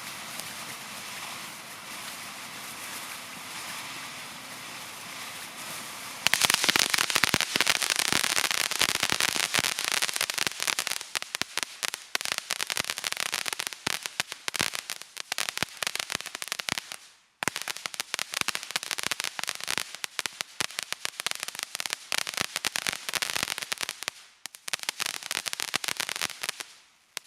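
Fireworks: a steady hiss, then about six seconds in a long run of rapid, dense crackling pops, firecracker-style, broken by two brief pauses before stopping.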